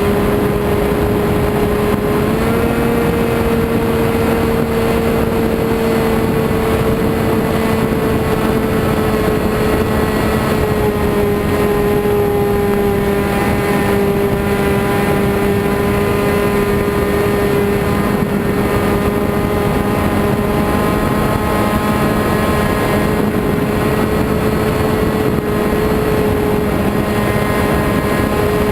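Radio-controlled model airplane's motor running steadily at a constant high pitch. The pitch steps up slightly about two seconds in.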